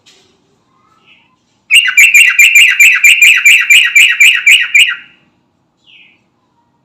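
Yellow-vented bulbul calling: a loud, fast run of about fourteen repeated chattering notes, roughly four a second, lasting about three seconds, with a single short note shortly before and after.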